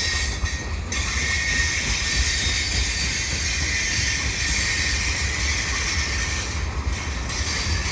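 Freight cars of a slow, heavy mixed freight, mostly hoppers, rolling past on steel wheels. A steady low rumble runs throughout, and a high wheel-on-rail hiss comes in about a second in.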